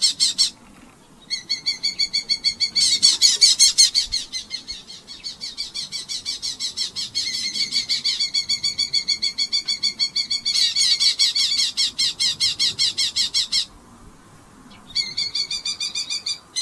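Red-footed falcon calling in a long, rapid series of repeated harsh notes, several a second. The series breaks off briefly twice, about a second in and near the end.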